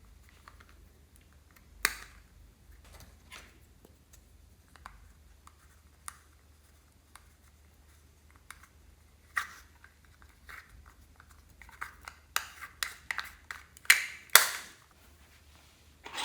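Hands handling slime-making supplies: scattered sharp clicks, taps and crackles, coming thicker near the end with a few louder snaps.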